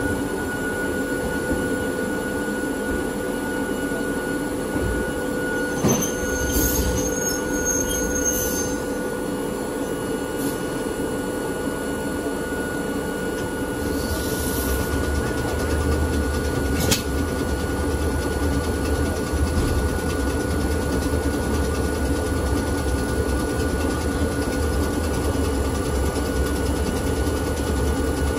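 Hakone Tozan Railway electric railcar running on the mountain line, heard from inside the car: a steady drone of motors and wheels on rail. A short high-pitched wheel squeal comes about six seconds in, there are occasional sharp clicks, and a deeper rumble sets in about halfway through.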